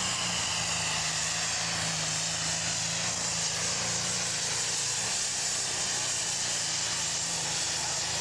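Super stock pulling tractor's turbocharged engine held at high rpm under full load, a steady loud engine note under a strong turbo hiss.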